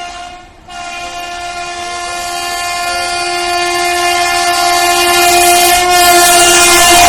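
Train horn on an Indian Railways train: a short blast, a brief break, then one long held blast that grows steadily louder as the train approaches.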